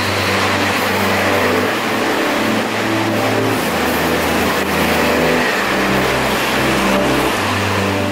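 Electric express train passing through a station at speed: a steady rushing of wheels and air along the platform, with background music underneath.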